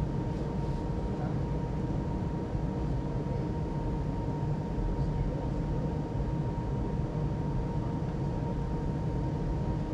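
JCB Pothole Pro running steadily, heard from inside its cab: a continuous low diesel rumble with a thin, constant high whine over it.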